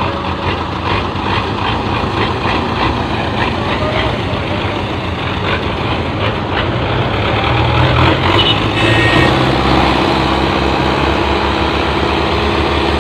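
Belarus tractor's diesel engine running, its low drone growing louder and heavier from a little past the middle. A brief high-pitched tone sounds about two-thirds of the way through.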